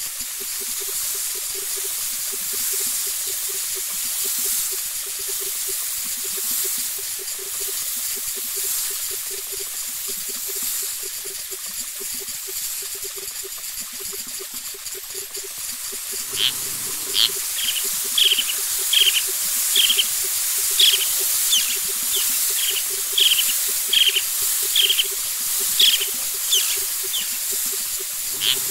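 Nature field recording: a steady high insect-like hiss with a fast low pulsing under it. About halfway through, a bird starts calling in short, sharp chirps, about two a second.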